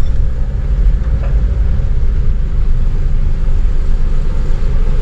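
Steady low rumble of a car's engine and tyres, heard from inside the car as it drives slowly.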